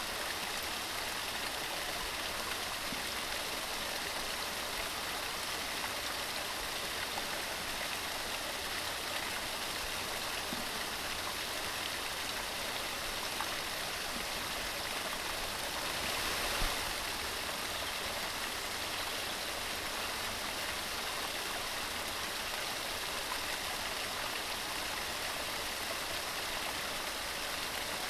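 Mountain stream running steadily over its bed, a constant hissing rush of water. About two-thirds of the way through there is one brief, slightly louder gush.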